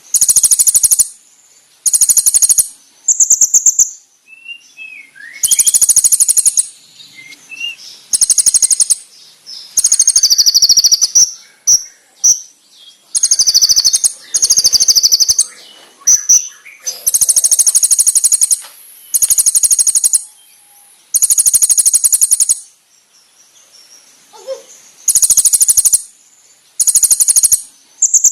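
Konin songbird singing sharp, very rapid high-pitched trill bursts, each about a second long and repeated every second or two, with faint short chirps in the gaps.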